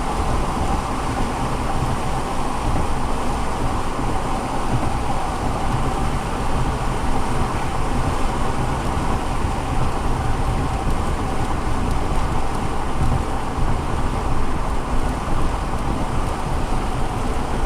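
Steady rushing noise with a constant low rumble, as heard from inside a vehicle in a storm: road noise mixed with rain.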